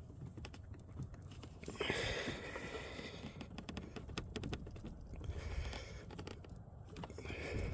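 Irregular clicks and a scraping rustle of hands and parts being handled around the engine bay, with a louder scrape about two seconds in and again near the end, over the low steady hum of the 1993 Ford Ranger's 3.0 V6 idling. The engine has a misfire, which the owner suspects is in cylinder 3.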